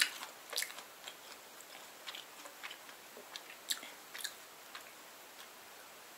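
Soft, irregular mouth clicks and smacks of someone chewing a mouthful of kimchi fried rice close to the microphone.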